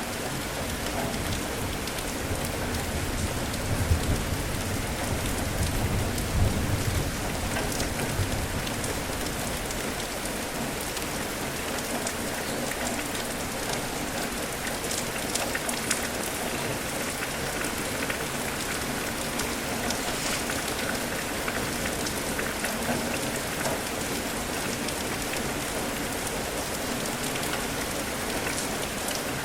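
Steady rain falling, with a low rumble through the first several seconds.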